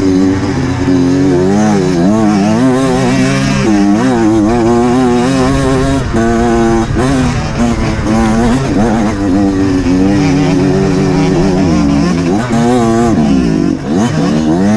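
Off-road dirt bike engine being ridden hard, its revs rising and falling over and over as the throttle is worked.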